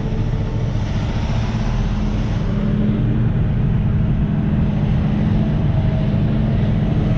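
Semi truck's diesel engine running steadily as the truck pulls forward at low speed.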